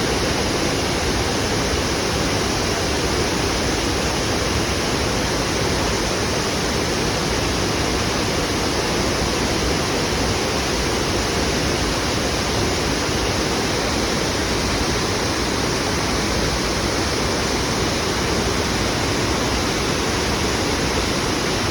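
Waterfall: water falling and splashing in a loud, steady rush that doesn't let up.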